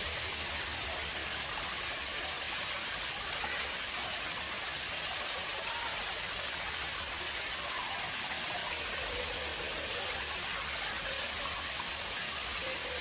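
Water running and splashing into an artificial pond: a steady rush with small gurgles through it.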